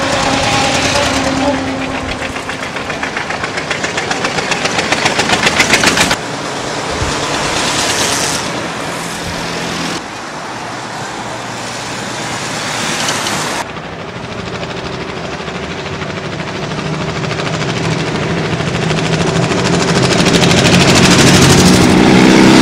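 Veteran cars from the early 1900s driving past on a street, their engines chugging with a rapid, even beat that grows louder as a car nears, over mixed traffic noise. The sound changes abruptly a few times. Near the end a motorcycle engine approaches and grows steadily louder.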